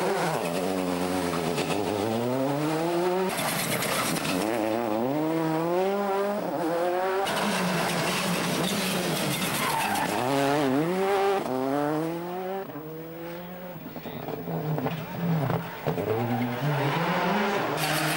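Turbocharged World Rally Car engine at full race pace, revs climbing and dropping again and again through gear changes, briefly quieter about two-thirds of the way through.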